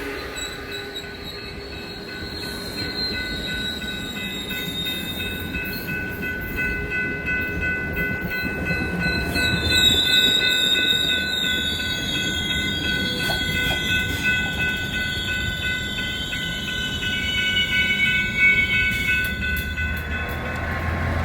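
A train running past with a low rumble of wheels on rail and a steady, high-pitched metallic wheel squeal in several held tones. One tone glides downward about ten seconds in.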